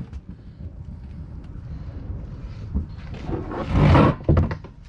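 Pressure washer running with a steady low rumble, with a loud burst of spray on the fuel tank near the end.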